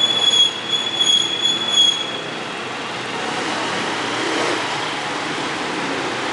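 Steady traffic noise with a high, steady squeal from a vehicle during the first two seconds, which then stops.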